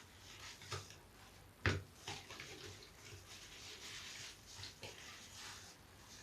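A big bath sponge being lathered and squeezed with soap scraps: faint wet squishing and crackling of foam, with a sharper squelch about a second and a half in.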